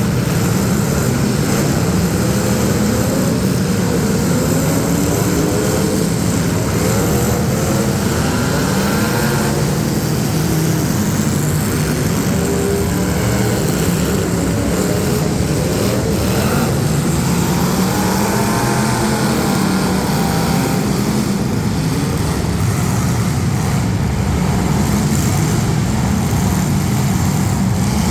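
Several demolition derby street stock car engines running at once, revving up and down in a steady loud din.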